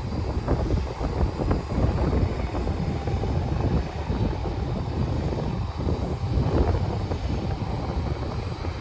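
Strong wind buffeting the microphone, a steady low rumble that rises and falls with the gusts. A faint steady high whine sits behind it.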